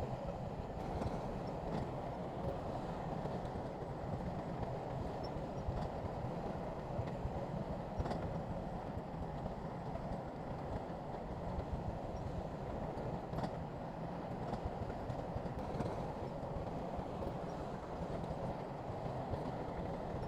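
Heavy earthmoving machinery running steadily, a deep diesel engine sound with a few sharp knocks.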